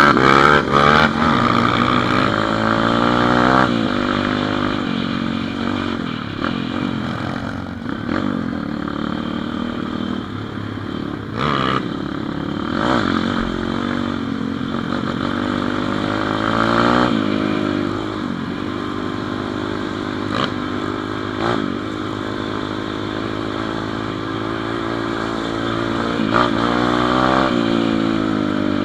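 Small single-cylinder pit bike engine running on the move, its revs climbing and dropping again and again as the rider throttles and shifts, with some rattling.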